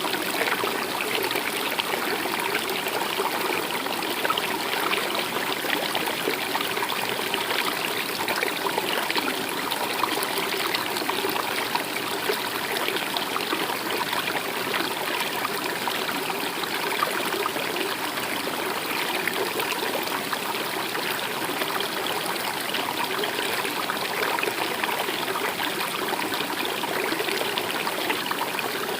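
A stream running and trickling steadily.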